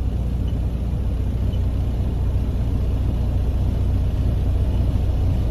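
Detroit DD13 inline-six diesel engine of a 2014 Freightliner Cascadia idling with a steady low rumble, heard from inside the cab.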